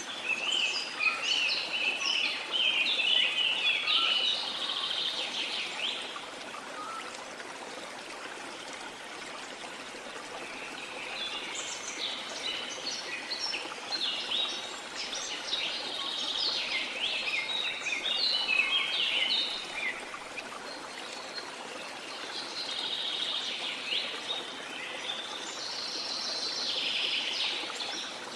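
Steady rush of a waterfall under songbirds singing and chattering in three bouts: the first few seconds, again from about a dozen seconds in for several seconds, and once more near the end.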